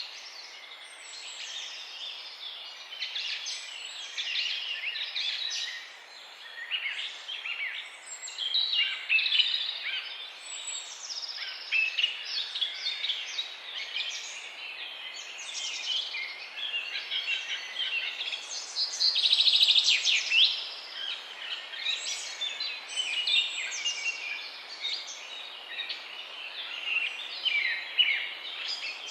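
Several songbirds singing and chirping over one another in a continuous dawn-chorus-like jumble of short high notes and quick trills, with a louder burst of song about two-thirds of the way through, over a faint steady outdoor hiss.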